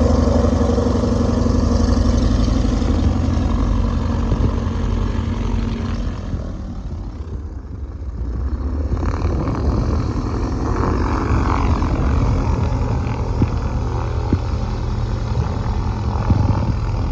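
Piston aircraft engine and propeller running close by, with a steady hum. It dips about seven seconds in and then builds again.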